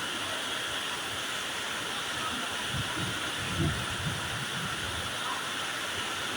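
Heavy monsoon rain pouring down steadily, with a few faint low rumbles partway through.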